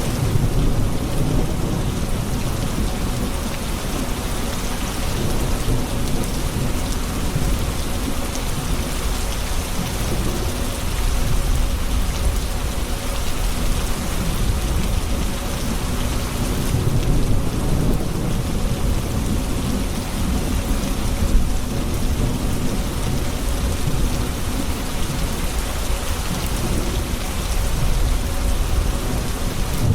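Steady heavy rain with rolling rumbles of thunder that swell and fade several times.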